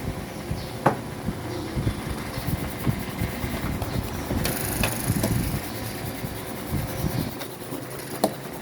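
Steady low engine-like rumble, with a few sharp clicks and a brief hiss about halfway through.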